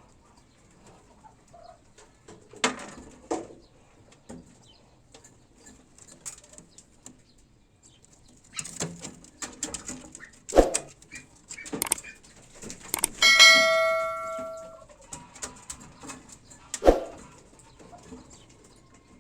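Pigeons stirring with scattered sharp knocks and rustles, and one bell-like ding a little past the middle that rings on and fades over about a second and a half.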